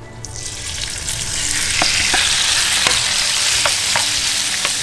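Chopped lobster meat hitting hot canola and sesame oil in a frying pan: a sizzle that starts suddenly just after the start and builds, with scattered clicks of a slotted spatula stirring the meat against the pan.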